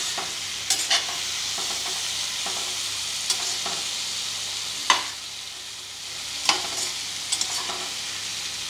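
Potato and tomato pieces sizzling in oil in a metal pot while a metal spatula stirs them. The spatula scrapes and clacks against the pot every second or so, loudest a little before halfway. This is the spices and vegetables being sautéed (kasha) for a chickpea curry.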